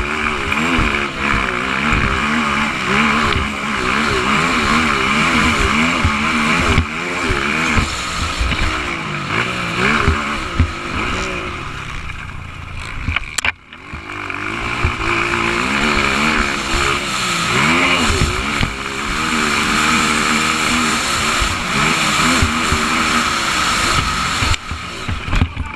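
Motocross motorcycle engine revving up and down over and over as the throttle is worked through the track. About halfway the sound breaks off sharply for a moment.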